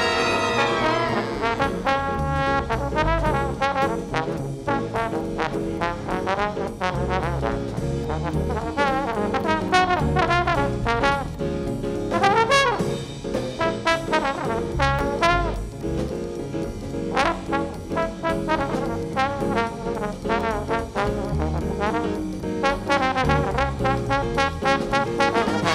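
Jazz band playing: a brass instrument solos a melodic line with bends and slides over bass and drums.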